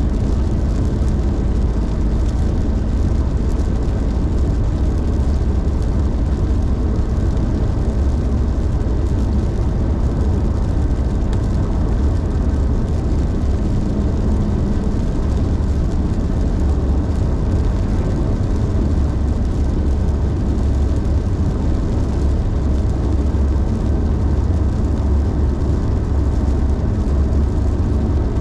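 A car being driven: steady road noise, a deep rumble of tyres and engine with no pauses or changes.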